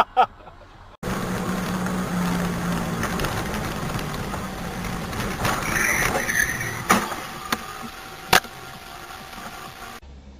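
Steady noise of a car driving, with a low engine hum at first and a few sharp knocks near the end.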